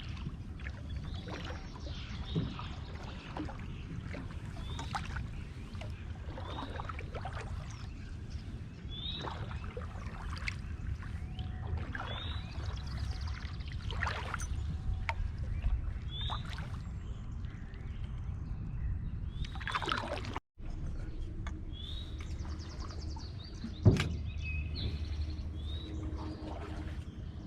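Canoe paddle strokes in creek water, one every two to three seconds with dripping and splashing, over a steady low rumble. A single sharp knock near the end.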